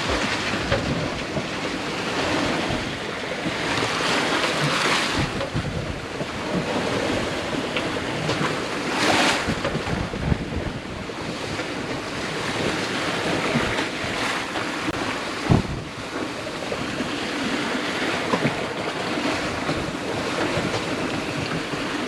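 Waves rushing and splashing around a sailboat under sail in gusty wind, with wind buffeting the microphone in rising and falling surges. A single sharp knock sounds about two-thirds of the way through.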